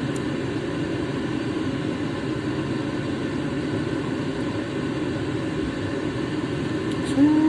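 Steady, even machine drone, like a running fan or motor in the background.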